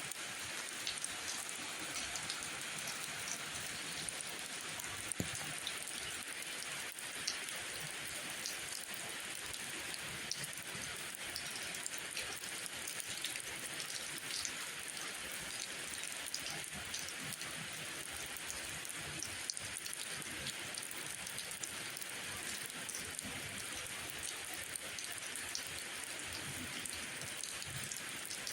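Steady rain falling, an even hiss with many scattered drops ticking sharply, a few of them louder.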